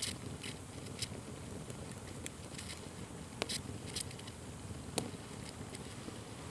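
Wood fire burning with a steady low rush and irregular sharp crackles and pops, the loudest pop about five seconds in.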